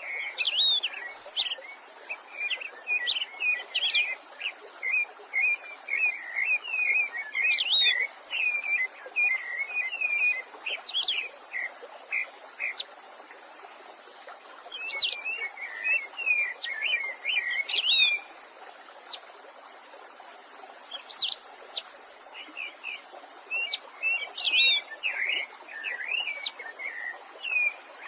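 A songbird singing long runs of rapid, twittering chirps, in bouts with short pauses, over the steady hiss of a running stream.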